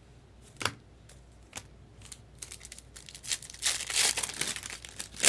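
Trading card pack wrapper being torn open and crinkled by hand: one sharp crackle, then a dense run of crinkling that grows busier toward the end.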